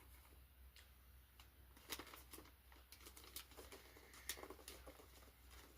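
Near silence, with a few faint taps and rustles from a wrapped gift box being handled.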